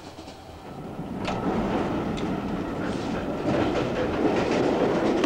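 Express passenger train running at speed, heard from inside: a steady rumble of the carriage wheels with the clack of rail joints. It grows louder about a second in.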